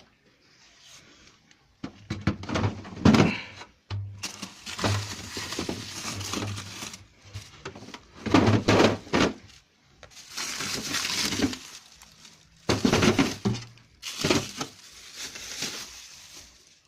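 Clattering and rustling of things being handled, with glassy clinks, in irregular bursts a few seconds long.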